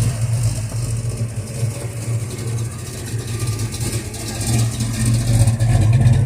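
A car engine running close by with a steady low note, getting somewhat louder near the end.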